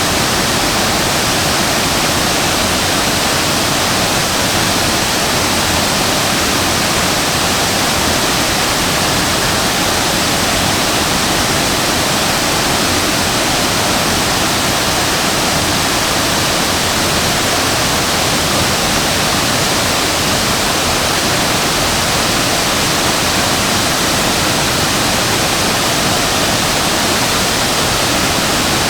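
Shasui Falls waterfall pouring, a steady, loud, unbroken rush of falling water.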